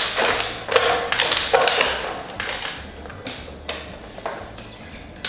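Paper lottery tickets rustling and tumbling in a draw barrel as they are mixed, with many short taps and clicks, busiest in the first two seconds and then sparser.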